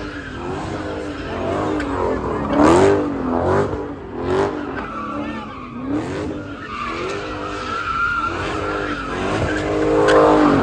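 Car engine revving up and down again and again while its rear tires squeal and skid through a sideshow spin (donuts). The loudest surges come about three seconds in and again near the end.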